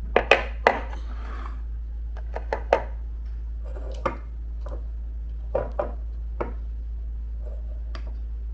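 Kitchen utensils clinking and tapping against dishes while batter is prepared: about ten sharp, irregular knocks, clustered in the first few seconds, over a steady low hum.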